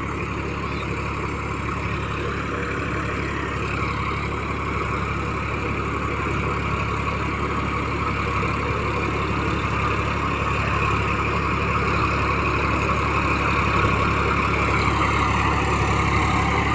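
Massey Ferguson 9000 tractor's diesel engine running steadily, growing gradually louder.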